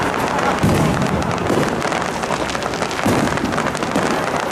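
Aerial fireworks display: shells bursting in the sky, with heavy booms about half a second in and again about three seconds in, over a continuous crackle of bursting stars.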